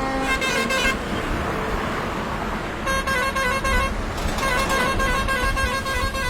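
Vehicle horns honking in road traffic: one horn held briefly at the start, then rapid, repeated honking about three seconds in and again from about four and a half seconds on, over a steady traffic rumble.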